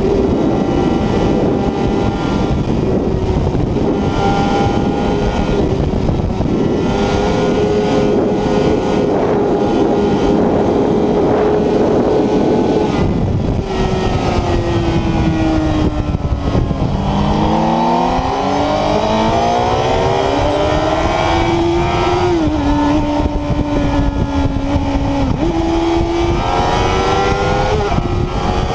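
Honda CBR 1000RR inline-four engine at high speed under heavy wind rush on the onboard microphone. The engine holds a steady high note, then falls away about halfway through as the bike slows. It then climbs again in rising revs, with gear changes toward the end.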